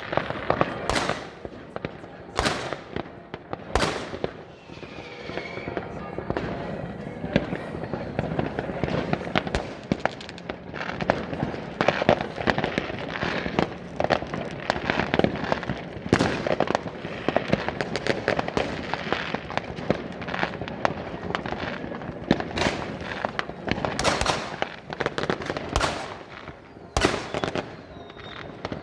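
Fireworks going off continually: many sharp bangs of rockets and firecrackers, irregularly spaced, over a dense, steady crackle.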